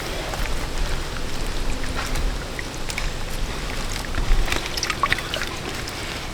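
Water trickling and splashing, with scattered small splashes and knocks over a low rumble.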